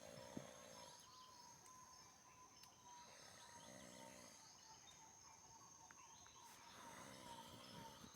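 Faint rainforest ambience: a steady high-pitched insect drone, with birds calling a few times.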